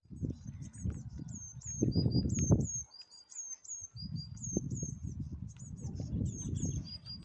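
Small songbirds chirping: quick, high, down-slurred notes repeated over and over, with a few lower two-note calls in between. Under them runs a low rumble that is loudest about two seconds in and drops away for about a second before coming back.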